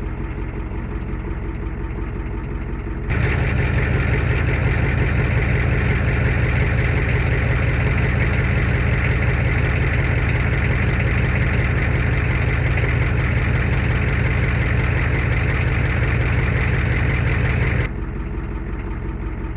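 Ford 7.3-litre turbo IDI diesel V8 idling just after a cold start in freezing weather, a steady knocking diesel clatter. About three seconds in it gets abruptly louder and fuller, and it drops back just before the end.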